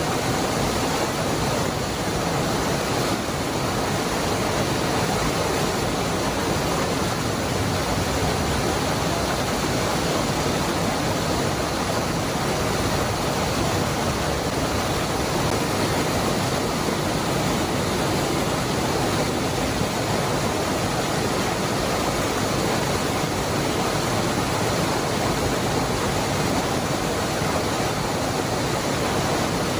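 Cascada del Hervidero waterfall: water falling and churning in a steady, unbroken rush with no changes or distinct events.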